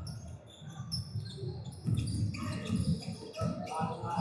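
Basketball game sounds on a gym court: a ball bouncing with irregular thumps, busier in the second half, and short high squeaks of sneakers on the floor.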